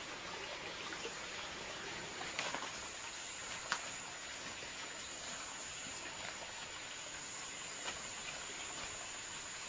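An insect trilling steadily at one high pitch, coming in about a second in, over a faint even hiss, with a few soft clicks.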